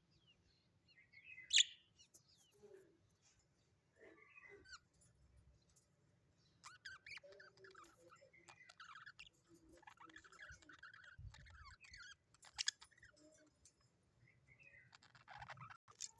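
Small pet parrots chirping and chattering softly in scattered short calls. A sharp, louder chirp comes about one and a half seconds in, and another about twelve seconds in.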